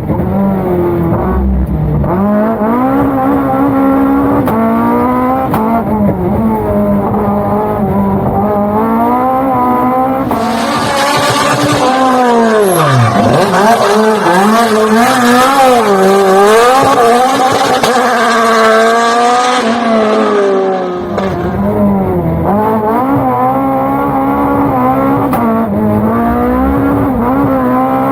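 Fiat 131 Abarth rally car's engine revving hard, its pitch rising and falling repeatedly as it accelerates and shifts through the gears. For about ten seconds in the middle, a loud rushing hiss joins the engine.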